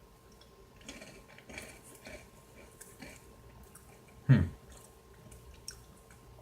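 Goldfish crackers being chewed: a string of soft, irregular crunches, with one short, louder voice sound about four seconds in.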